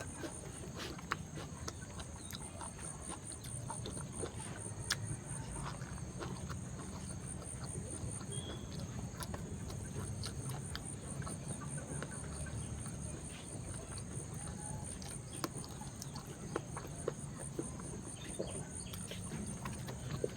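Steady high-pitched drone of crickets or similar insects, finely pulsing, over a low hum, with scattered small clicks.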